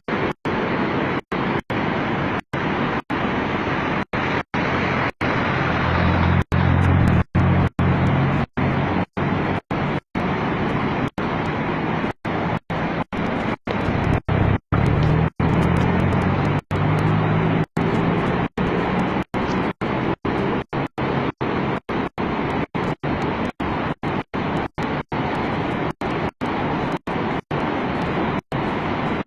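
Steady rushing noise of a flooded street during a storm, with a vehicle engine rumbling louder twice as it passes. The sound cuts out briefly about twice a second.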